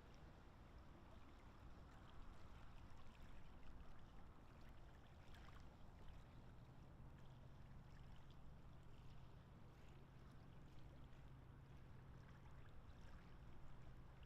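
Near silence: faint outdoor background noise, with a low steady hum coming in about six and a half seconds in.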